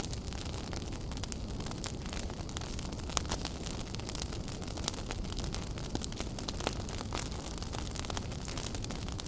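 Wood fire burning in a fireplace: a steady low rumble of flame with frequent sharp crackles and pops, two louder pops about three and five seconds in.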